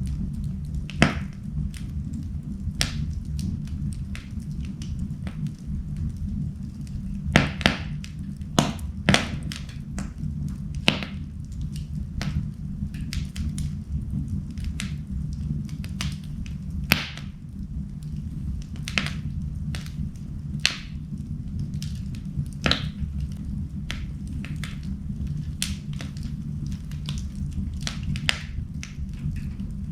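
Wood fire burning in a fireplace: a steady low rumble with irregular sharp crackles and pops, a cluster of louder pops about a quarter of the way in.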